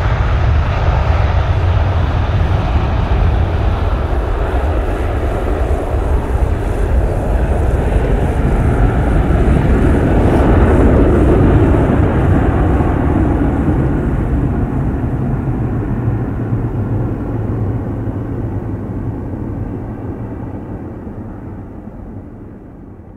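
Airbus A321-200 jet engines at high thrust, a loud steady rumble with a broad rushing hiss. It swells to its loudest about halfway through, then fades steadily as the airliner moves away.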